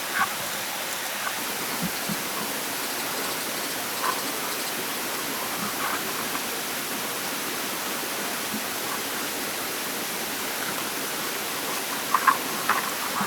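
Steady hiss of water noise, with a few faint taps and a short run of clicks near the end.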